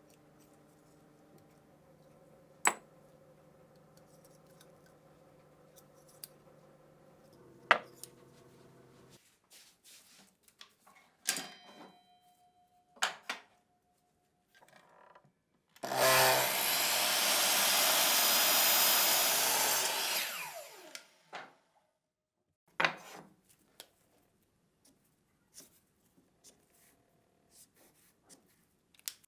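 Sharp clicks and knocks of parts being handled, then a power tool runs for about five seconds about halfway through before stopping, followed by a few more clicks.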